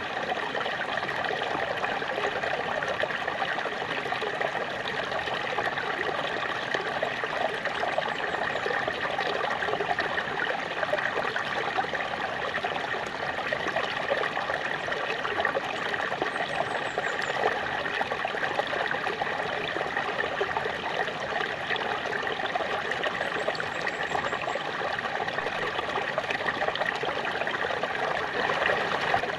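Small waterfall splashing steadily, an even rush of falling water with no breaks and little deep rumble.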